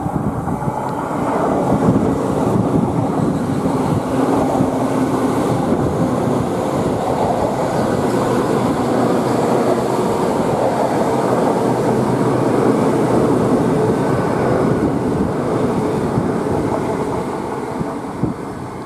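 Great Western Railway Intercity Express Train passing close beneath and running away along the main line: a steady rumble of wheels on the rails that builds about a second in and eases off near the end.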